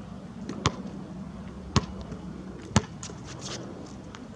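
Basketball bouncing on the court: three sharp thuds about a second apart.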